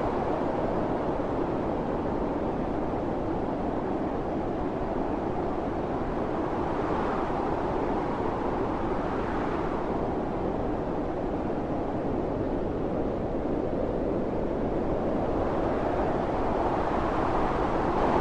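Storm wind blowing in a steady, dense rush. It swells in a gust about halfway through and builds again near the end.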